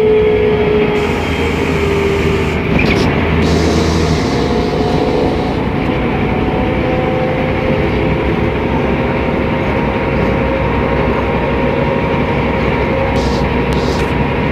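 Mercedes-Benz O500MA articulated bus driving under way: its diesel engine and driveline running with a whine that slides lower over the first few seconds, then climbs slightly and holds steady, over constant rumble and road noise.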